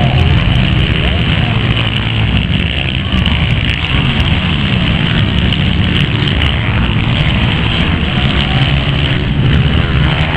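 Motocross dirt bike engines running and revving, loud and continuous, with their pitch rising and falling.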